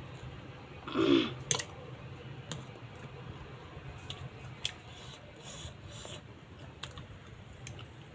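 A person eating chow mein up close, with scattered small sharp mouth and utensil clicks. A louder, fuller sound comes about a second in.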